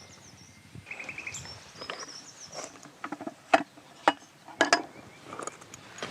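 Several sharp knocks and clicks of objects being handled, most of them between about three and five seconds in. Short high chirping trills come in the first two seconds.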